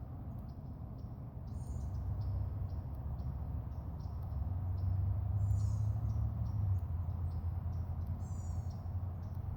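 Birds calling outdoors: short high chirps repeating a few times a second, with three brighter falling calls spaced a few seconds apart, over a steady low rumble.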